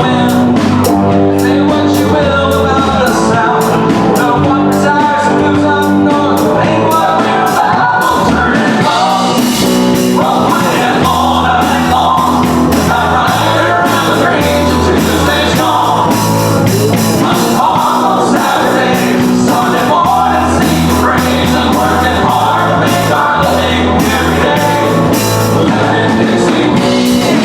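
Live country-rock band playing, with a lead singer over drum kit and bass.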